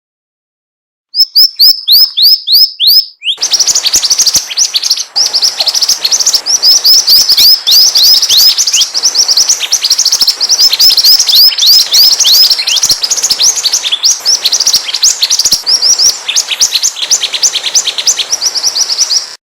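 Mantenan (pied fantail) song: quick, high sweeping chirps repeated several times a second. A short run of chirps comes about a second in, then after a brief pause a dense, unbroken stream that cuts off suddenly near the end.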